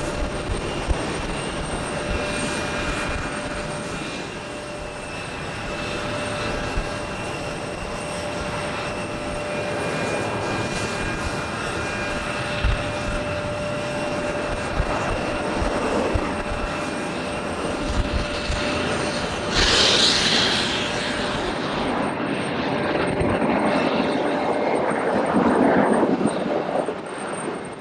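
Jet airliner engines running, a steady rushing rumble with a thin constant whine over it. The noise swells louder toward the end.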